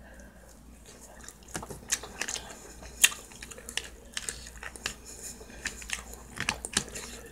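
Close-up chewing and mouth smacking while eating salmon cake, with many short sharp clicks scattered throughout, the loudest about three seconds in. A metal spoon clicks in a plastic food tray.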